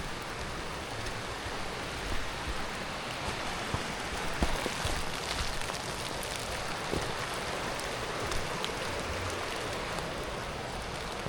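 Steady rainfall, drops pattering on leaves and surfaces, with a few sharper drop ticks, over the rush of the high, rain-swollen river.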